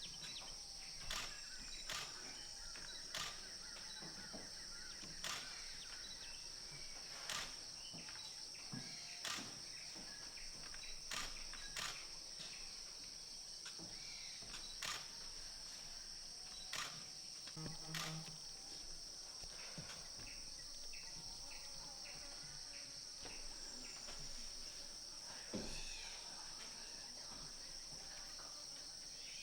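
Steady high-pitched drone of insects, with scattered bird chirps. Short sharp clicks or snaps come about every two seconds through the first two-thirds, then thin out.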